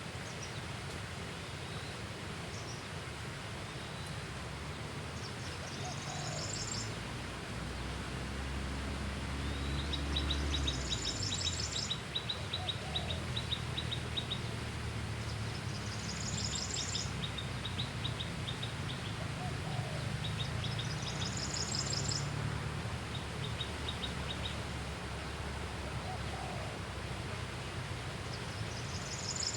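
A bird repeating a short, high, rapid trilled call about every five seconds, several times followed by a faster ticking trill, over a steady low rumble that swells briefly about a third of the way in.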